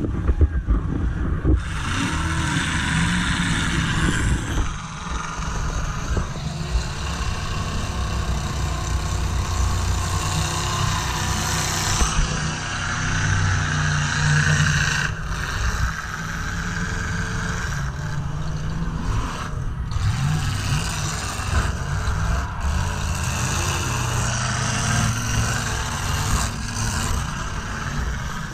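Demolition derby car engine running and revving continuously, heard from an onboard camera, with a noisy hiss and rattle over it.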